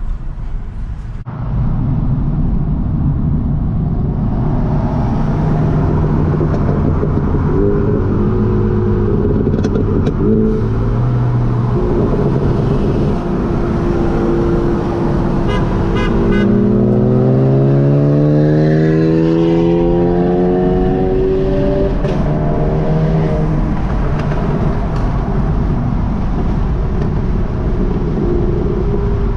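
Car engine and road noise while driving, the engine revving up under acceleration a little past halfway, then settling back to a steady cruise.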